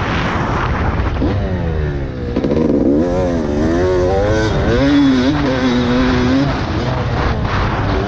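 Two-stroke Yamaha YZ250 dirt bike engine being ridden hard, its pitch rising and falling again and again as the throttle is worked, over a dense low rumble.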